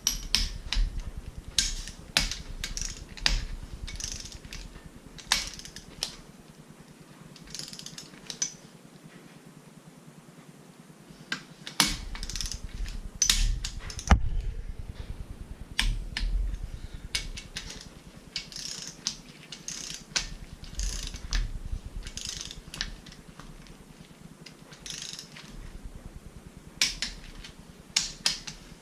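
Ratcheting torque wrench being worked on engine bolts: many irregular, sharp ratchet clicks, with a quieter lull about a quarter of the way through. The wrench is not reliably clicking off at the set torque on some bolts, which the builder takes for a worn-out torque wrench.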